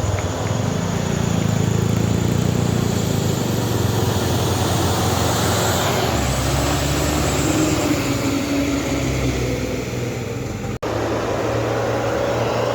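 Truck engine running steadily, its low hum shifting about halfway through, with a momentary drop-out in the sound near the end.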